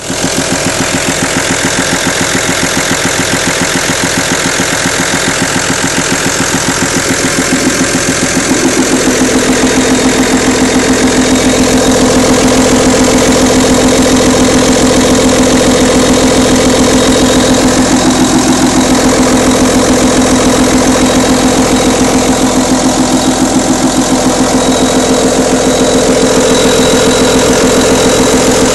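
Audi A6 2.5 TDI diesel engine running at idle with a fast, even rattling tick, which the owner links to the camshaft, hydraulic lifters and rocker arms. About eight seconds in, the sound gets slightly louder and a steady whine joins the engine note.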